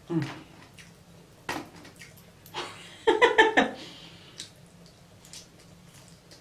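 Close-miked eating sounds: a hummed "mm", then chewing and mouth noises, with a louder run of quick smacking clicks about three seconds in.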